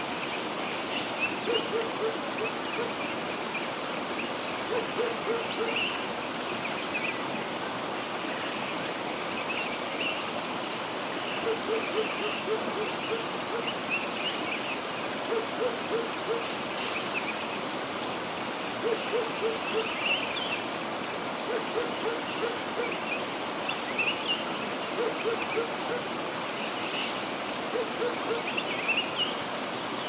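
Birds calling: runs of three to five short, low hoot-like notes every few seconds, with many higher chirps, over a steady rushing noise.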